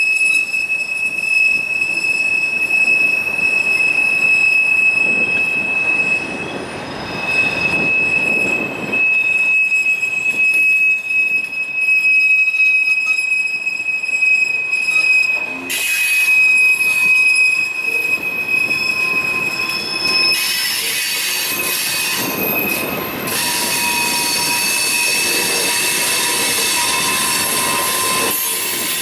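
Freight train cars rolling past with their wheels squealing in a steady, high, piercing whine. About twenty seconds in, the single whine gives way to a harsher, higher screech with a lower squeal under it.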